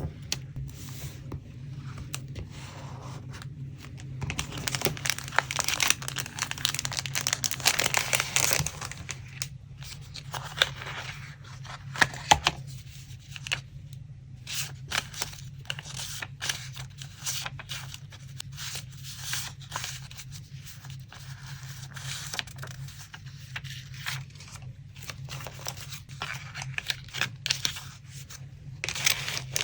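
Paper being torn and handled at close range: a long stretch of tearing about four to nine seconds in, then crinkling and rustling with small taps as the paper pieces are moved about.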